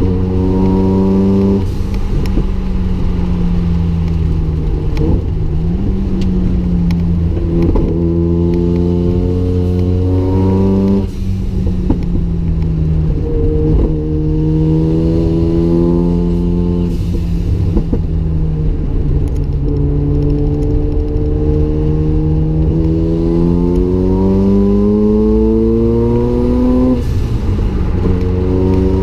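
Mazda RX-7's turbocharged rotary engine being driven hard on track. The engine note climbs repeatedly under acceleration and drops sharply at each gear change or lift, with a few stretches of steadier, lower pitch.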